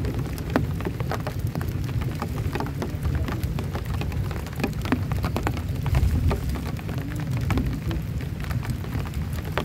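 Heavy rain falling on a camping shelter, with many separate drops pattering sharply over a steady deep rumble. The rain swells a little about six seconds in.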